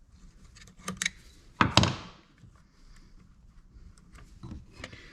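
Clicks and knocks of chainsaw parts being handled as the throttle trigger is worked into the rear handle of a Husqvarna 345, with one louder knock a little under two seconds in and a few light ticks later.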